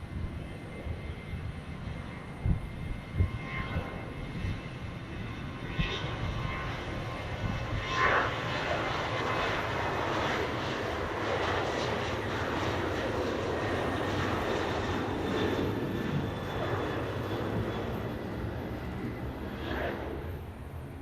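Jet airliner taking off, its engine noise swelling from about eight seconds in, staying loud, then easing off near the end, with scattered low thumps.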